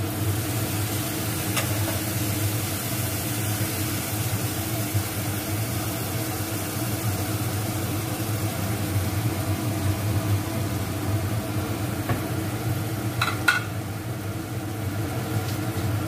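Mustard, poppy-seed and green-chilli paste sizzling in hot oil in a wok, over a steady low hum. There are brief sharp clicks about one and a half seconds in and a pair near the thirteen-second mark.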